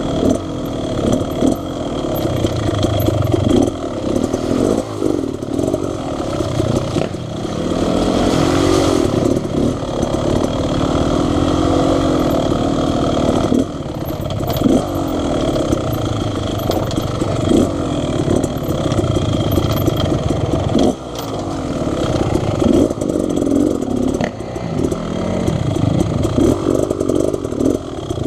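Dirt bike engine revving up and down while riding: the pitch rises and falls with the throttle, with a few brief drops in level when the throttle closes. It has the buzzy note of a two-stroke, as on the rider's Beta Xtrainer 300.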